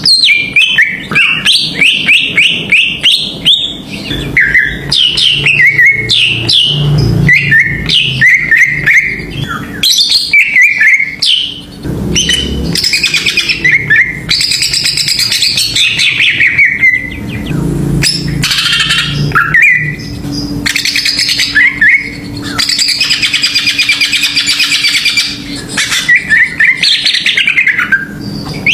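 Green leafbird (cucak ijo) singing nonstop: a fast, varied run of chirps, sweeping whistles and trills, with a dense buzzing trill held for a few seconds near the end. A faint steady low hum lies under the song.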